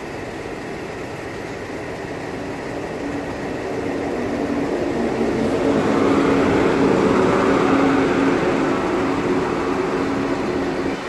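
Deutsche Bahn ICE high-speed train running along the platform track: a rushing sound of wheels on rail with a steady low hum, swelling to its loudest as the power car passes about six seconds in, then staying strong as the coaches roll by.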